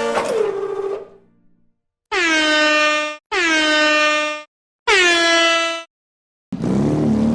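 A vehicle horn sound effect blasting three times, each blast about a second long, dipping briefly in pitch at its start and then holding a steady tone. It is preceded by another pitched sound gliding down and fading out in the first second.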